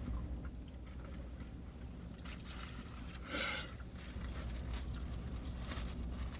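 Quiet eating and handling of fast-food wrappers inside a car, with small scattered clicks and rustles over a steady low hum. One brief, louder rustle comes about three and a half seconds in.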